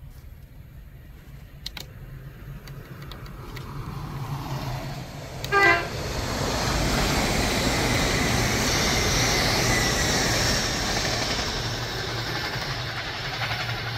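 A train approaching and sounding a short horn blast about five and a half seconds in, then passing with a steady rush of wheel and rail noise.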